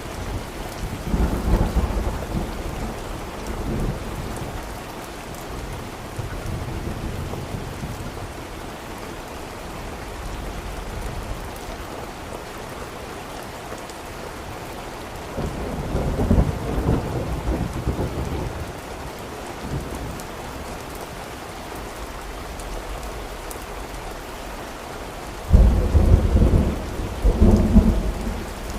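Steady rain with rolling thunder: low rumbles swell about a second in and again around the middle, and a louder, closer crack of thunder with several rolling peaks comes near the end.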